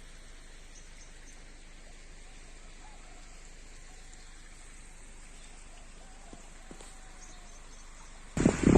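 Soft, steady rain hiss with a few faint short chirps. Near the end it cuts abruptly to loud wind buffeting the microphone.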